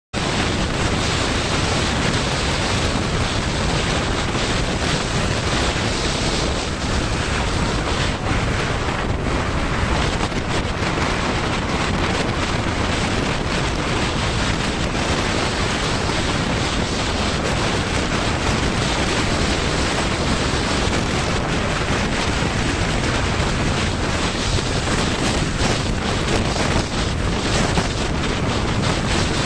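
Steady rushing wind buffeting the microphone, an even roar with no distinct events.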